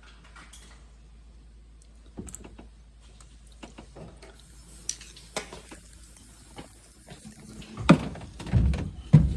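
Scattered clicks and knocks, then a run of louder clunks and rattles near the end, as the bottom freezer drawer of a Whirlpool French-door refrigerator is handled on its slide rails.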